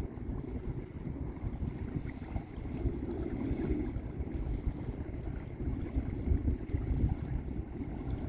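Small lake waves washing onto a beach, mixed with a low, gusty rumble of wind on the microphone.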